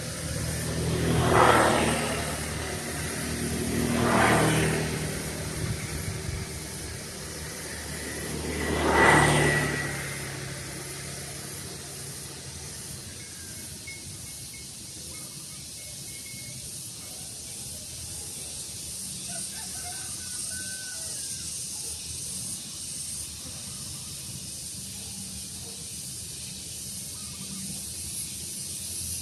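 Three vehicles passing in turn in the first ten seconds, each swelling up and fading away; after them a steady hiss of open-air background with a few faint bird calls.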